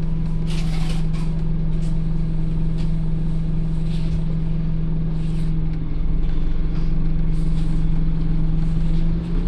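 Scania OmniCity N230UD double-decker bus's diesel engine running with a steady drone, with short hisses of air now and then. The note dips briefly just before the end.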